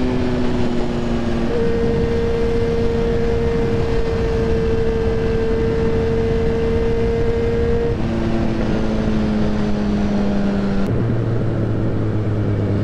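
Yamaha XJ6N's inline-four engine running under way, its note stepping up about a second and a half in, dropping around eight seconds, and dropping again near eleven seconds, over heavy wind rush.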